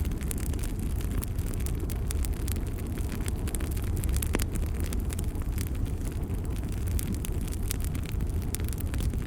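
Bonfire burning with a steady low rumble of flames and frequent sharp crackles and pops, one pop standing out a little past the middle.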